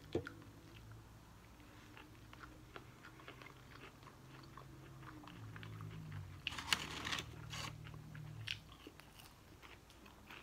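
Close-up chewing and biting into a crispy fried chicken sandwich, with faint crunches and mouth clicks and a louder burst of crunching about six and a half seconds in.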